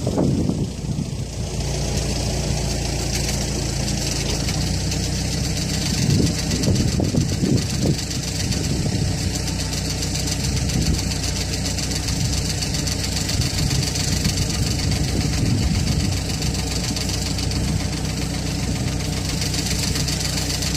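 Backhoe engine running steadily, with a few louder surges about six to eight seconds in.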